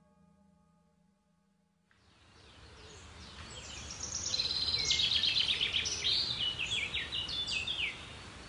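A faint ringing tone fades out, and about two seconds in outdoor ambience comes up. A songbird then sings a fast, varied song of trills and sliding whistles for several seconds.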